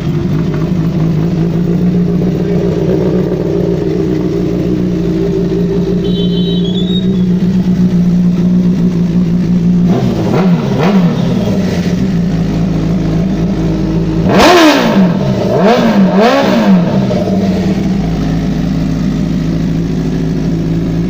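Sport motorcycle engine idling steadily, revved once about ten seconds in, then given three quick throttle blips around fifteen seconds in before settling back to idle.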